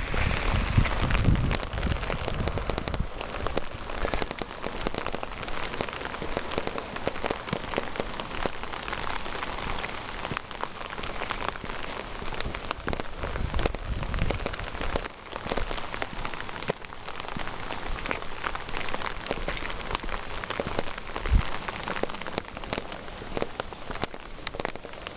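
Steady rain falling, a dense hiss full of sharp individual drop ticks, with a few low rumbles near the start and about halfway through.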